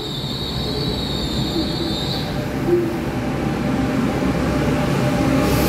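EMU3000 electric express train moving along the platform: a steady rumble of the cars with a high, steady squeal that fades out about two seconds in, the running noise growing a little louder near the end.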